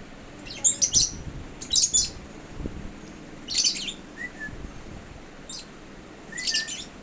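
Lovebirds chirping: about five short clusters of high, quick chirps, a second or two apart.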